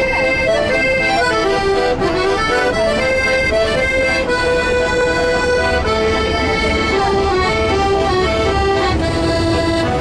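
Accordion playing a melody over sustained chords, its reedy held notes moving from pitch to pitch.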